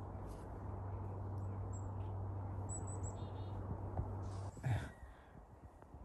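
A steady low rumble with a few faint, high, thin bird chirps about halfway through, and a short, louder bird call near the end, just as the rumble drops away.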